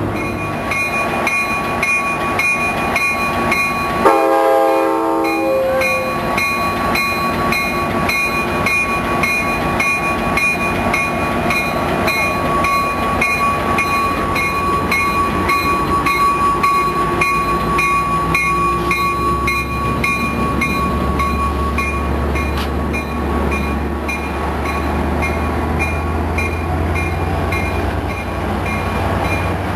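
EMD F59PHi diesel locomotive of a commuter train moving past, with a short horn sound about four seconds in. Its engine's low drone grows stronger in the second half, over an even ticking about twice a second.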